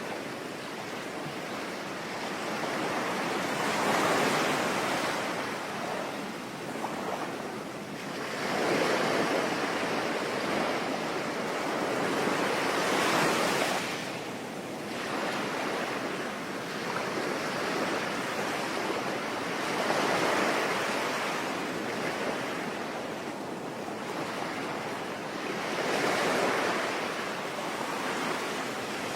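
Sea waves washing in and breaking in slow swells every few seconds, over a steady hiss of rain.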